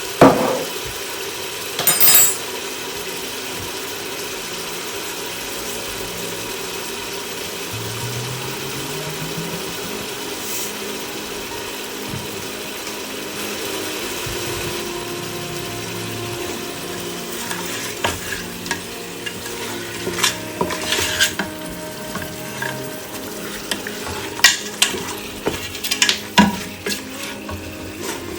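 Food sizzling as it fries in a pan, with a utensil stirring. A utensil knocks and clinks against the pan twice near the start, then repeatedly in the last third.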